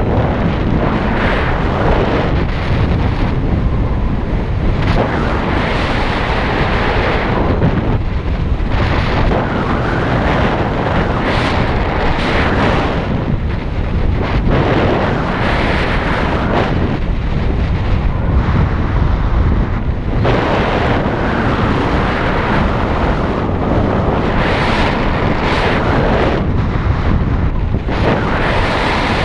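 Heavy wind noise buffeting the microphone, a loud, even rush that surges and eases every few seconds.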